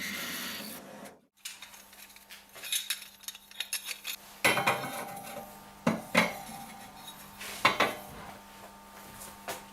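Small metal parts being handled, clinking and clanking against each other and a hard surface, with a few louder knocks in the middle. A steady rasping noise stops about a second in, before the clinking starts.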